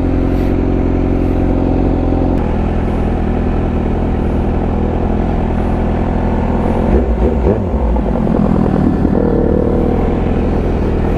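Suzuki GSX-R750 inline-four with an aftermarket headers, midpipe and slip-on exhaust, running steadily under way. The engine note changes about two seconds in and wavers up and down around seven seconds in.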